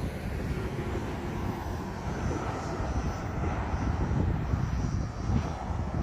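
Slow-moving BNSF freight train rolling past, a steady low rumble of wheels on rail with a faint high ringing.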